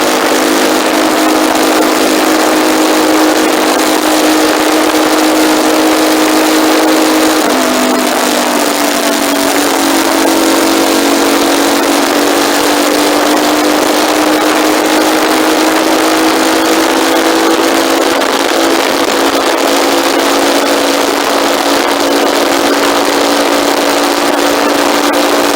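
Motorcycle engine running at road speed, recorded by a phone on the handlebar mount, under heavy wind hiss. The engine note drops about seven seconds in, then climbs slowly as the revs rise again.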